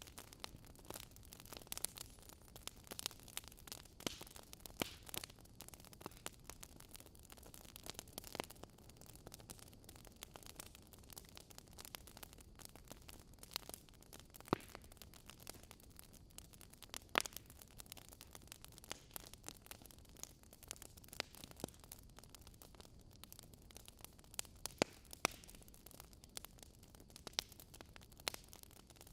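Wood fire burning in a fireplace, crackling with irregular sharp pops over a soft steady hiss, a few pops louder than the rest.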